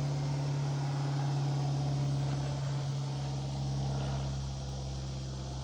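A steady low mechanical hum, like a motor or engine running, with a rough rumble over it that eases slightly near the end.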